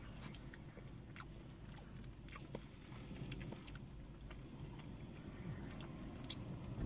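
A person chewing mouthfuls of poutine (fries in gravy), with scattered small clicks and crunches.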